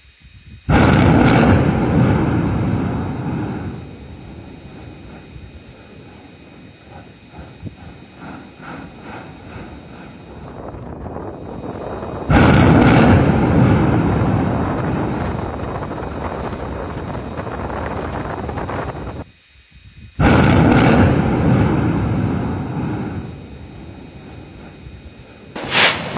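Three loud claps of thunder, each starting suddenly and rolling away over several seconds, about a second in, near the middle and again about two-thirds through.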